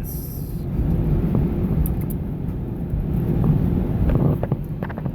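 Airbus A319 cabin noise while taxiing after landing: a steady low rumble from the engines and the wheels rolling on the taxiway. There is a brief high hiss at the very start and a few light knocks and rattles near the end.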